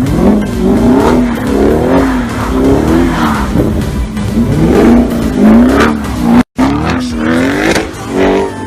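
Audi RS6 tuned to 740 hp with an Akrapovič exhaust, revving up and falling back over and over, about once a second. The sound cuts out for a moment about six and a half seconds in.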